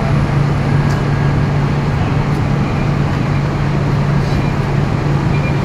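Scania K230UB city bus's diesel engine running at a steady speed, a constant low hum with road and body noise around it.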